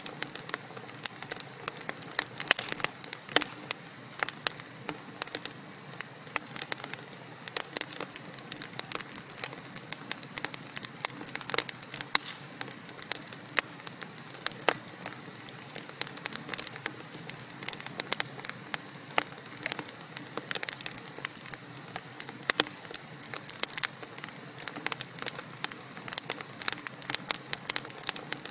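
Wood fire burning in a fireplace: a steady soft hiss under frequent sharp, irregular crackles and pops from the burning logs.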